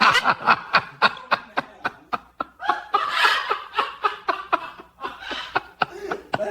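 Hearty laughter in quick, repeated bursts, several a second, without words.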